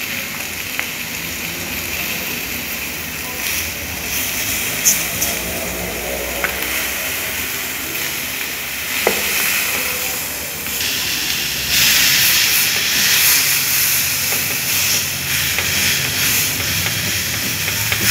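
Food sizzling and hissing as it cooks in a hot pan. The hiss gets louder about twelve seconds in, with a few light clicks along the way.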